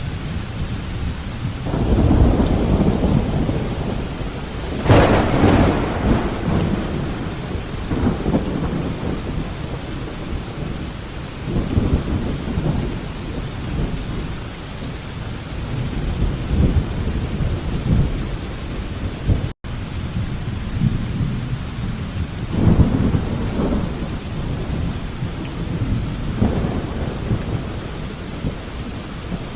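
Thunderstorm: steady rain with rolling thunder. A low rumble comes about two seconds in, a sharper crack of thunder about five seconds in, and further rumbles follow through the rest. The sound drops out for a split second about two-thirds of the way through.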